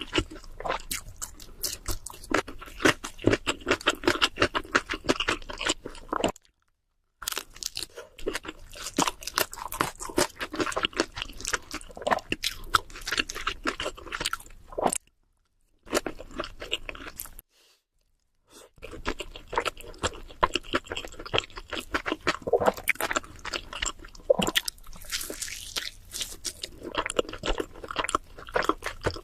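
Close-miked chewing and crunching of cheese seafood pizza: dense, irregular crackles and wet mouth sounds, broken by three short gaps of dead silence.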